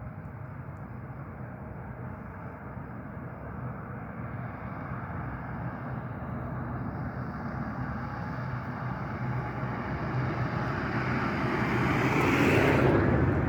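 Jet airliner's engines growing steadily louder as the aircraft approaches, swelling to a loud peak near the end as it passes close.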